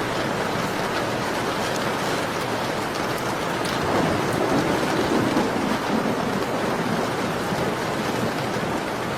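Steady rainfall with the occasional sharp crackle of a wood fire. The sound swells for a couple of seconds about four seconds in.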